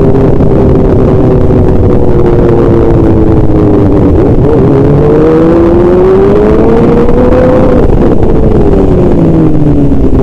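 A motor vehicle's engine running under way over heavy road and wind noise. Its pitch holds steady, drops about four seconds in, climbs again, then falls near the end, as with a shift or a change in speed.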